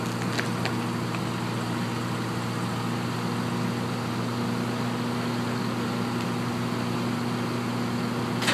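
A drill rig's engine running at a steady speed, giving a constant low hum, with two faint ticks in the first second.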